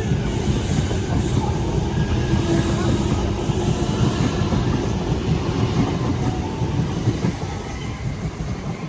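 Sydney electric suburban passenger train running past at close range: a steady, loud rumble of wheels on rails with faint whining tones, easing off near the end.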